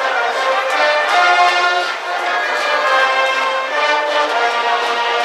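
School brass band playing a cheering melody in the stands at a baseball game, with sustained brass notes changing pitch.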